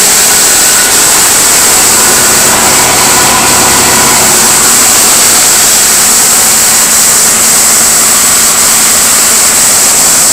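Supercharged 3.8-litre 3800 V6 (L67) of a 1998 Oldsmobile LSS idling steadily and smoothly, still warming up shortly after a cold start; it purrs like a kitten.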